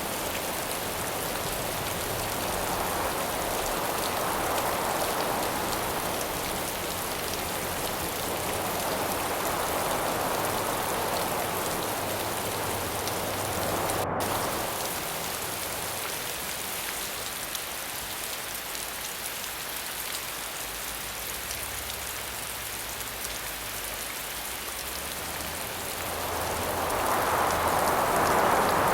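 Steady, dense rain hiss with wind gusting through it in slow swells every few seconds. A split-second dropout in the high hiss comes about halfway through.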